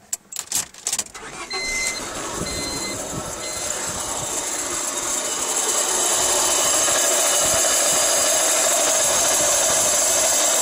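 Car engine cranked and started about a second in, then running with a steady grinding noise that grows louder and levels off at about six seconds; the grinding is worse with the air-conditioning belt removed. A dashboard chime beeps three times shortly after the start.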